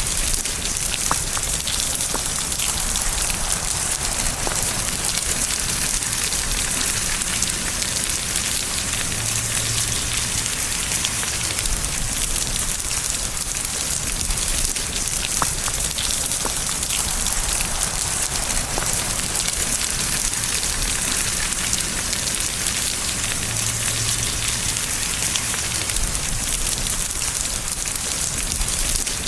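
Steady rain: an even hiss of falling rain with scattered individual drop ticks.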